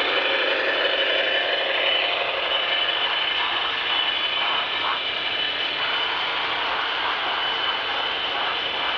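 HO-scale model train running along the track: a steady mechanical running sound from the motor and wheels, with a thin steady high tone.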